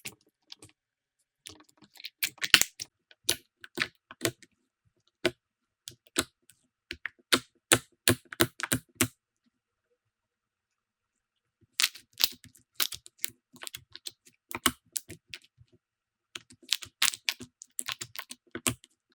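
Slime being pressed and squeezed by hand, making irregular sticky, crackling clicks in clusters, with a silent pause of a couple of seconds about halfway through.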